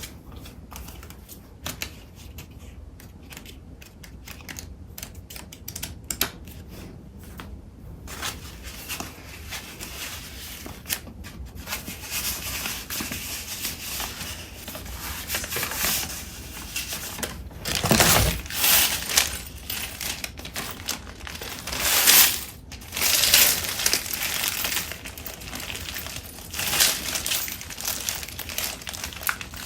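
Paper crafting supplies handled close to the microphone. Light taps and clicks for the first several seconds give way to steady paper rustling and crinkling, with a few louder, sharp crinkles a little past the middle.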